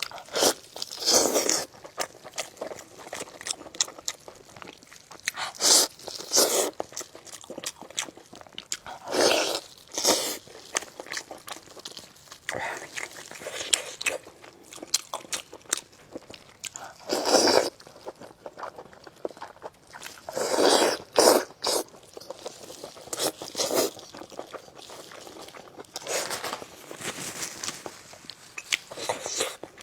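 Close-miked eating of braised lamb chops: chewing, with loud crunching bites that come at irregular intervals.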